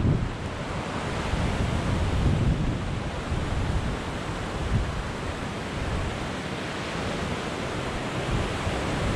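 Rough sea surf washing steadily onto a beach in strong wind, with wind buffeting the microphone.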